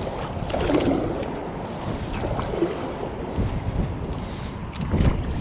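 Wind rumbling on the microphone over water sounds, with a few uneven louder gusts or splashes.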